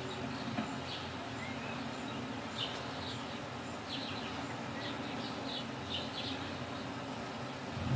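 Small birds chirping in short, quick groups of high calls over a steady low background hum.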